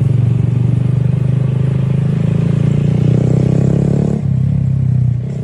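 A vehicle engine running steadily with a low hum, shifting in pitch about four seconds in.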